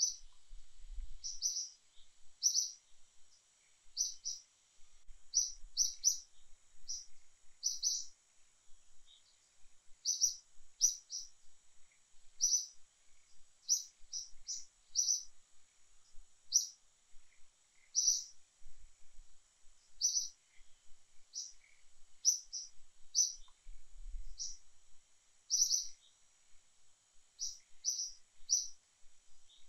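A bird calling over and over: short, high chirps, often in twos or threes, about one to two a second, over a faint steady high-pitched hiss.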